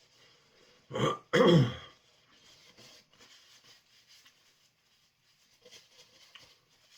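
A man clearing his throat: a short rasp about a second in, then a longer, louder one that falls in pitch.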